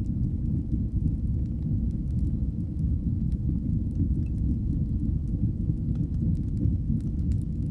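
Fire burning in a fireplace: a steady low rumble of flames with faint, scattered crackles.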